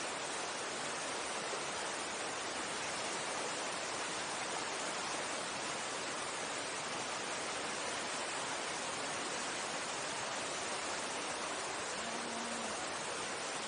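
Mountain stream rushing over rocks: a steady, even roar of running water.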